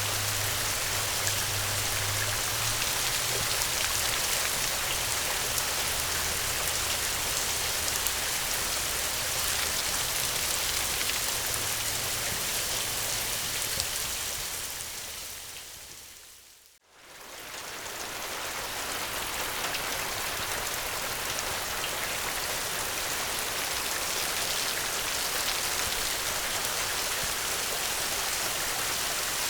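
Steady rain, an even hiss that fades out to near silence about two-thirds of the way through and fades straight back in.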